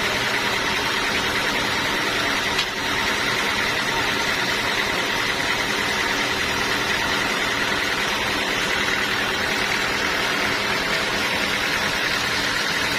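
Sawmill machinery running steadily: a constant mechanical drone with a steady high hum, and a single brief tick about two and a half seconds in.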